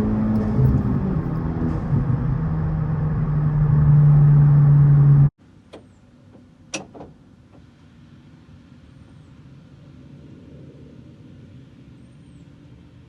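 Modified Honda Civic Type R FL5's turbocharged four-cylinder engine and exhaust pulling steadily, its pitch slowly climbing and getting louder, then cutting off abruptly about five seconds in. After that only a quiet low hum remains, with a few sharp clicks.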